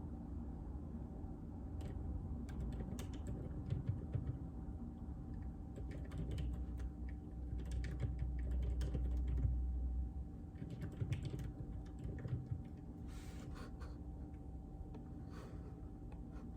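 Typing on a JJK84 mechanical keyboard with Outemu Silent Peach linear switches: muted keystrokes in irregular bursts, starting about two seconds in, over a steady low hum. A low rumble rises for a couple of seconds in the middle.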